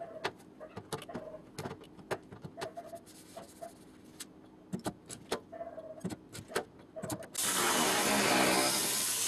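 Scattered light clicks and knocks of work on a car body, then a power tool switches on about seven seconds in and runs loud and steady.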